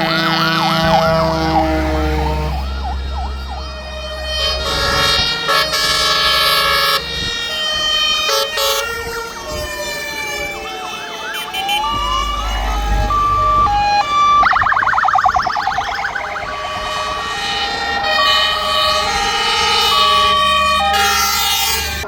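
Several fire engines sounding their sirens and horns together. A fast yelping siren and a slow rising-and-falling wail sweep over steady, many-toned horn blasts, with the low rumble of the trucks' engines underneath.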